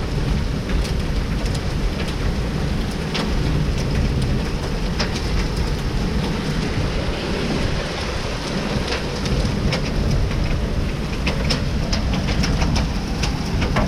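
Heavy downpour of rain mixed with hail, a steady dense rushing with scattered sharp ticks of stones and drops striking hard surfaces and a low rumble underneath.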